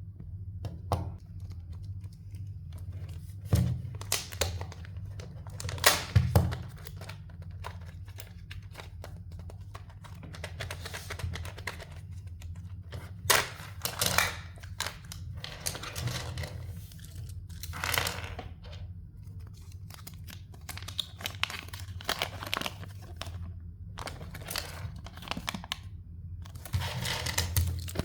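Foil and plastic wrappers of Kinder Joy surprise eggs being torn and crinkled open by hand, with irregular sharp clicks and snaps from the plastic capsules and toy parts, over a steady low hum.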